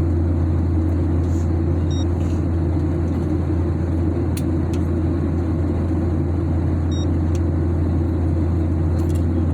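Airliner cabin noise during the climb: a loud, steady low drone with engine and airflow rumble. A few sharp clicks and two brief high beeps, about 2 s and 7 s in, sound over it.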